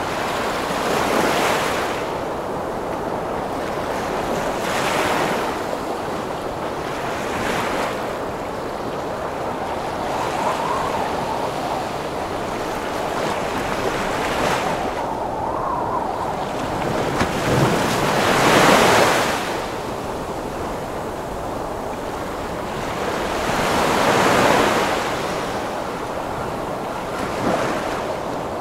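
Heavy ocean waves breaking in a strong wind: a constant rush of surf, with louder wave crashes swelling and falling back every few seconds. The loudest crash comes a little past the middle.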